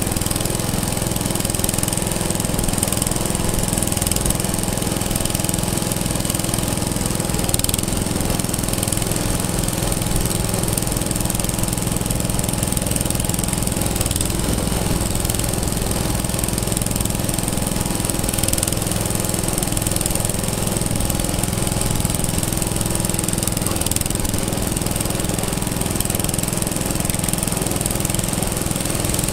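Antique engine running steadily at an even speed, its low exhaust beat pulsing evenly throughout.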